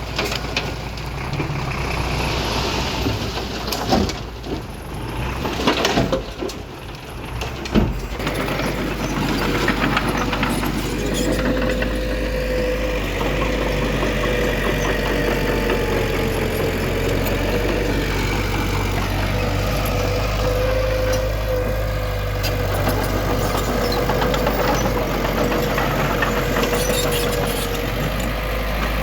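Heavy earthmoving machine's engine running, with a few sharp knocks in the first eight seconds, then a steady drone with a thin whine from about eleven seconds in.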